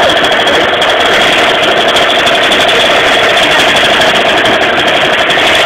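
50cc moped engine built with a complete Pro Race performance kit, running loud and steady at idle with a buzzing note.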